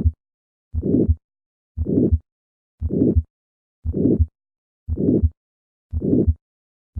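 Heart sounds with the diamond-shaped (crescendo-decrescendo) systolic ejection murmur of aortic stenosis filling the gap between the first and second sounds. It repeats about once a second and is heard over the second right intercostal space, the aortic area.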